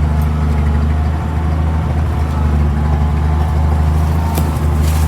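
WW2 International KS4 truck's engine running steadily as the truck rolls along, a loud, even low drone. Two sharp knocks sound near the end.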